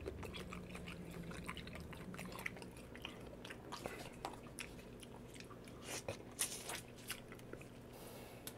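Close-up chewing of a mouthful of shrimp in butter sauce, heard as irregular wet mouth clicks that are busiest about six to seven seconds in.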